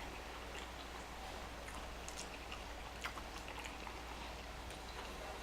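A person chewing food, with faint small wet mouth clicks scattered throughout.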